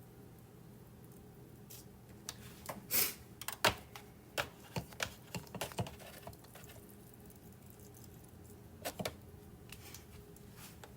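A run of light, irregular clicks and taps from handling a marinade injector over a raw turkey, busiest in the first half and with two more a little before the end, over a faint steady hum.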